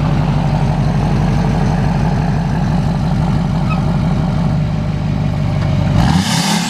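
Duramax LMM 6.6 L turbodiesel V8 in a 2007 3500 dually, running steadily through a new 4-inch exhaust and sounding healthy. About six seconds in, the engine note rises and falls briefly and a rushing hiss comes in.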